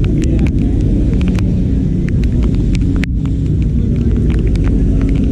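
Heavy rain heard through a waterproof camera housing: scattered sharp ticks of raindrops striking the camera over a steady low rumble.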